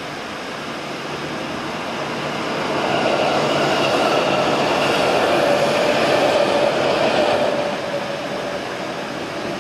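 JR West 221 series electric multiple unit passing on the tracks, with wheels running on the rails. It grows louder from about two seconds in, is loudest as the cars go by, and fades after about eight seconds.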